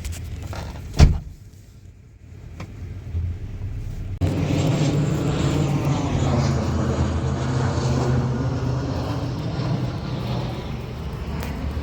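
A single sharp knock about a second in. Then, about four seconds in, a steady engine drone starts suddenly and runs on.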